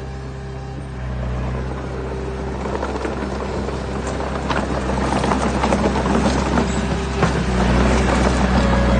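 Heavy diesel engine running steadily, joined from about two and a half seconds in by rocks clattering and crunching that grow louder. The engine note strengthens near the end.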